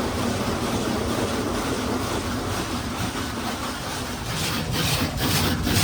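High-pressure water jets from an in-bay automatic car wash blasting the car body, heard from inside the cabin as a steady rushing spray. From about four seconds in, the spray comes in pulses about three times a second.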